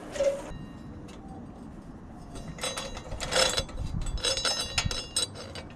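A short knock, then from about halfway a run of metallic clinking and rattling, as of metal parts or tools being handled.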